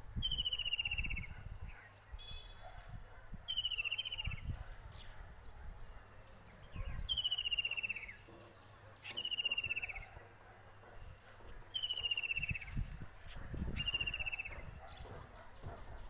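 A bird repeating a loud, descending trilled call about six times, each about a second long, every two to three seconds. A low rumble of wind or handling sits on the microphone beneath it.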